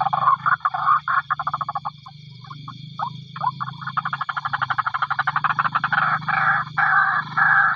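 White-breasted waterhen (ruak-ruak) calling: a series of repeated harsh notes that breaks into a fast stutter of short rapid pulses in the middle, then returns to the steady repeated notes. A low steady drone runs underneath.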